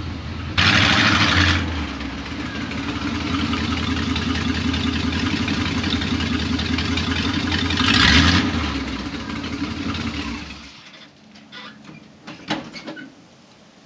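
1978 Chevy K10 pickup's engine running, with two brief revs, one about a second in and one about eight seconds in. It shuts off about eleven seconds in, followed by a few light clicks and knocks.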